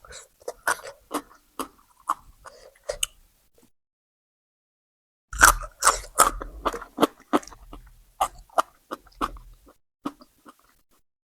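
A person chewing crunchy food with sharp, crisp crunches: a few bites, a pause of nearly two seconds, then a denser, louder run of crunching from about halfway through.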